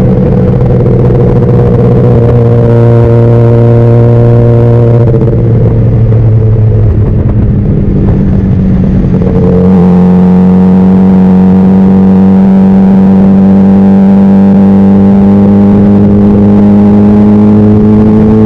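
Honda CBR600RR's inline-four engine running steadily under way, its pitch drifting slowly down. About halfway through there is a rougher, noisier patch of a few seconds, then the engine settles back to a steady note that slowly climbs in pitch.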